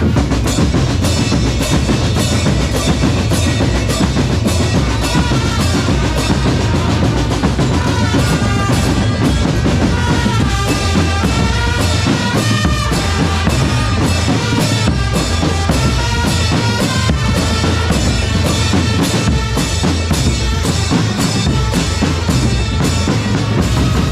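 Drum corps percussion playing continuously: a fast, even beat of bass drums and snare drums with rolls, with a melody line over the drumming.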